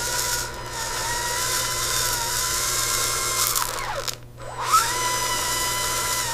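Small electric motor of an RC concrete mixer truck whining steadily. About four seconds in it winds down to a stop and spins straight back up to speed.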